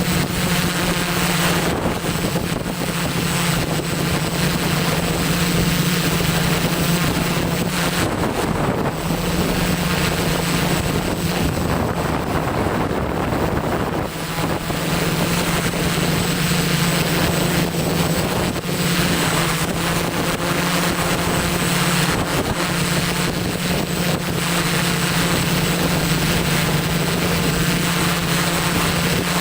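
ZeroUAV Steadi470 multirotor drone's electric motors and propellers humming steadily, with strong wind buffeting the microphone.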